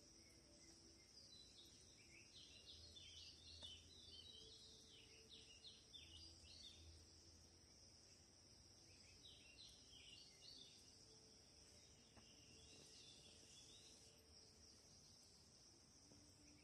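Faint bird chirps coming in a few twittering runs, over a steady high hiss.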